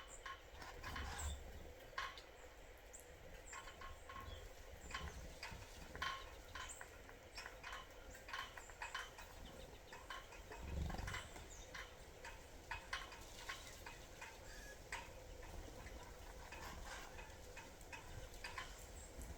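Small birds at a sunflower-seed feeder: faint, irregular sharp pecks and taps, several a second at times, over a low rumble.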